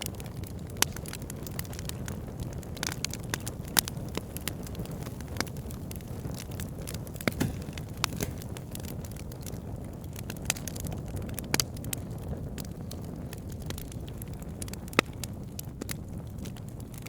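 Wood fire burning: logs crackling and popping with frequent sharp snaps over a steady low rush of flame, a few louder pops standing out now and then.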